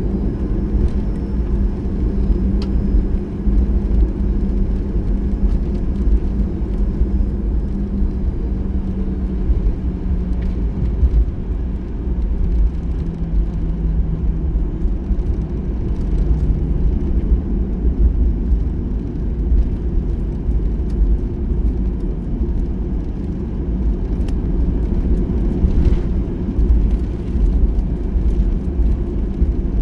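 Cabin noise inside a Boeing 737-800 taxiing on the ground: a steady low rumble from its CFM56 engines at taxi power and the rolling airframe. A low engine hum steps down slightly in pitch about twelve seconds in.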